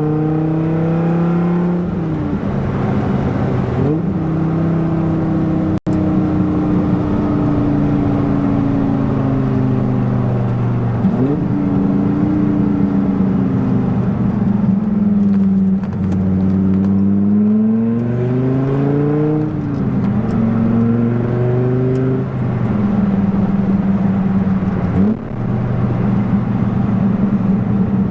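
1997 Dodge Viper GTS's 8.0-litre V10 engine under way, pulling and easing off. Its pitch climbs, then drops suddenly at gear changes several times, with stretches where it slowly falls and a steady stretch near the end.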